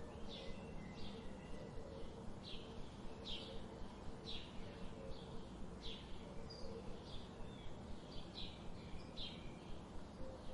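Birds chirping: a steady run of short, high, falling chirps about every half second, over a constant background hiss.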